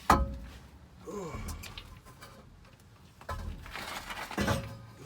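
A sharp metallic clank with a short ring as the exhaust parts are handled under the truck, followed by scraping and shuffling.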